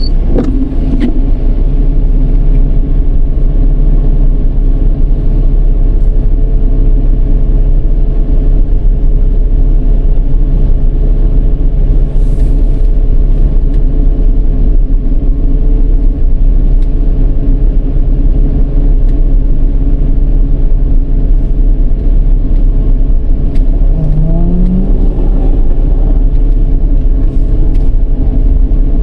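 Dodge Charger's 3.5-litre V6 driving: a loud, steady low rumble, with a short rising tone about 24 seconds in as it accelerates.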